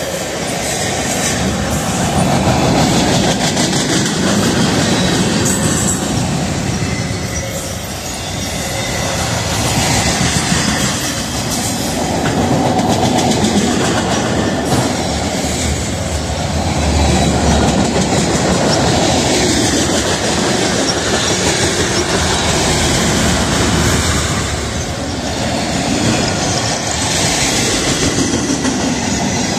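Freight cars of a mixed train, autoracks and tank cars, rolling past at close range. Steel wheels rumble and clatter over the rails in one continuous noise that swells and dips as each car goes by.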